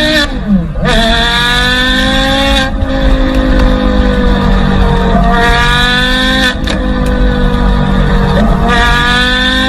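Porsche Carrera GT's V10 engine running hard, its note climbing slowly in pitch through several stretches and changing abruptly every few seconds, as in full-throttle pulls through the gears.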